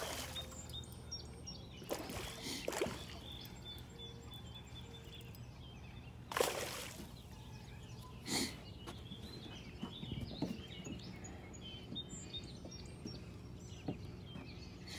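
Faint outdoor pond ambience: small birds calling over a steady low hum, broken by a few brief swishes or splashes of water.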